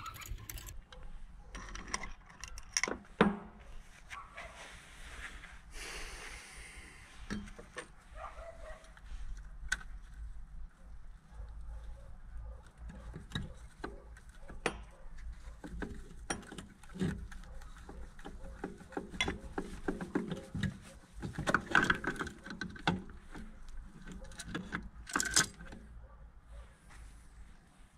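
Metal engine parts and hand tools clinking and knocking during engine disassembly: irregular small clicks with a few louder knocks, one a few seconds in and a cluster near the end.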